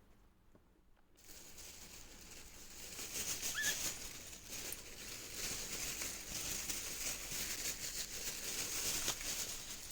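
Continuous rustling and crinkling handling noise with many small clicks, starting about a second in, and a single short chirp about three and a half seconds in.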